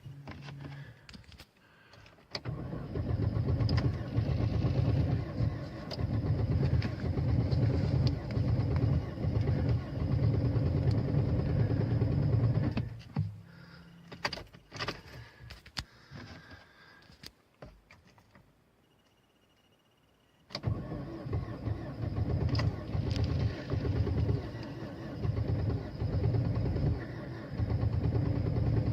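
Car engine turning over on its starter in extreme cold: a long cranking attempt of about ten seconds that stops. A few clicks follow, then cranking starts again suddenly and goes on.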